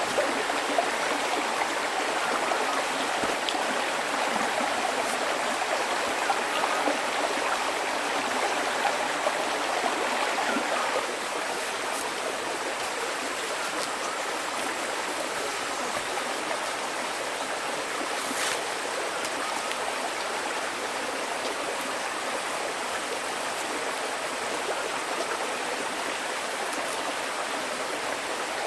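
Stream water running and splashing steadily, a little louder for the first eleven seconds or so.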